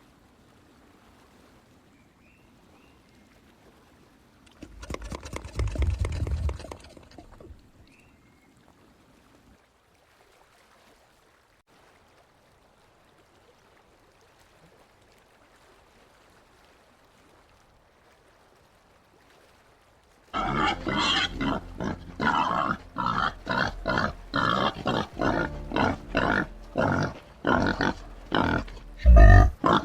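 White-lipped peccary calling: a short burst of grunting about five seconds in, then, from about two-thirds of the way through, a rapid series of loud grunts at roughly two a second.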